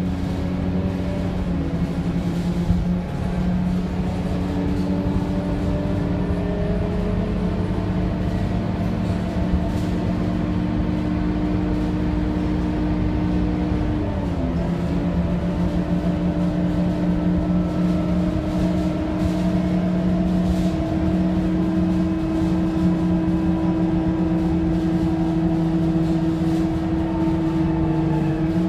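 Scania K230UB city bus running, its Scania DC9 diesel engine and ZF automatic gearbox giving a steady hum with whining tones that drift slowly in pitch. About halfway through the tones dip briefly and then settle back.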